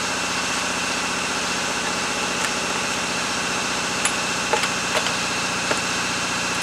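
A small engine or machine running steadily at an even idle, with no change in speed, and a few light clicks from handling.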